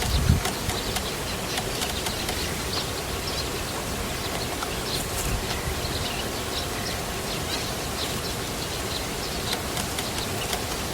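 Small birds chirping: many short, high chirps scattered through, over a steady background hiss. A brief low bump sounds right at the start.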